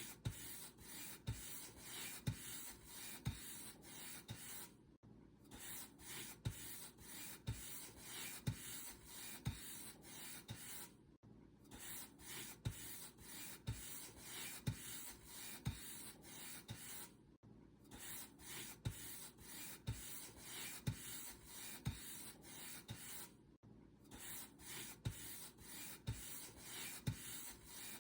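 Paint brush bristles stroked back and forth over a surface, a rubbing scratch one or two times a second, with a short pause about every six seconds.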